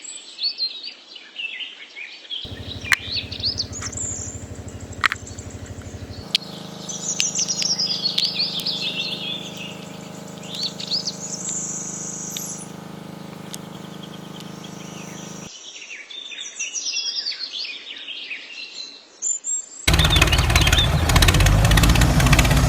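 Small birds chirping and calling in quick high twitters. A steady low hum runs under them for much of the middle. Near the end a much louder, dense mechanical sound cuts in.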